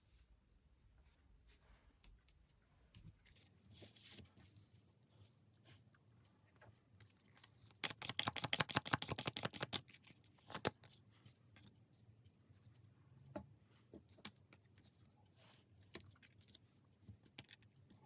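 Tarot cards being handled and shuffled: scattered soft clicks and slides of card stock, with a rapid run of flicking clicks lasting about two seconds near the middle, as in a riffle shuffle.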